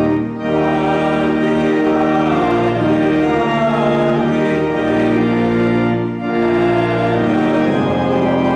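Hymn played on a church organ with voices singing along: held chords, broken by short pauses between phrases about a third of a second in and again about six seconds in.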